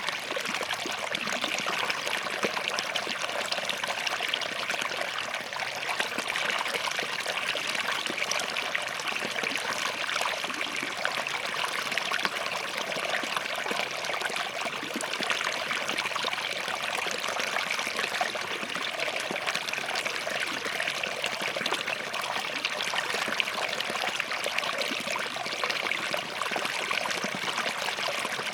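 Small forest stream flowing between rocks: a steady trickling and splashing of running water.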